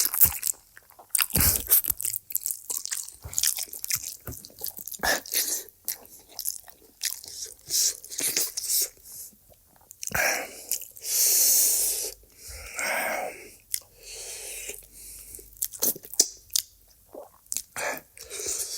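Close-miked eating: a person biting, chewing and crunching food in many short crisp clicks, with a few longer breathy rushes, like slurps or hard breaths, about halfway through.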